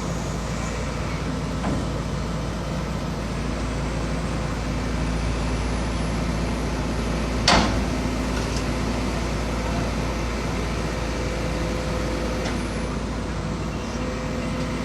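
Heavy construction machinery's diesel engine running steadily, with a single sharp knock about halfway through.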